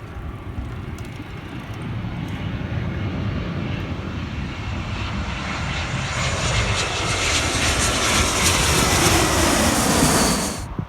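Airplane engines at takeoff power, the roar growing steadily louder as the aircraft climbs away and dropping in pitch as it passes. The sound cuts off abruptly near the end.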